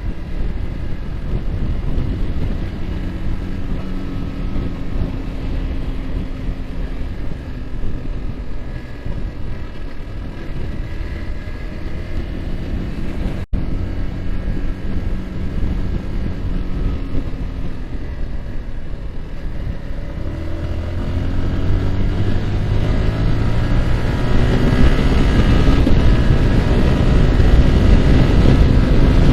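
Yamaha R15's single-cylinder engine running at a steady cruise under wind rushing over the microphone, then pulling harder with its pitch rising and getting louder about two-thirds of the way in as the bike accelerates.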